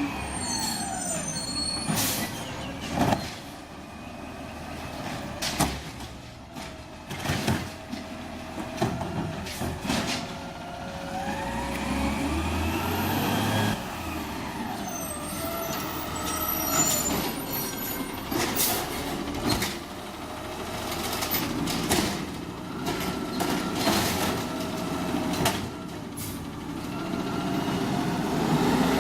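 Refuse collection truck working: its engine revving up and falling back several times, with repeated sharp clanks and bangs and an air-brake hiss.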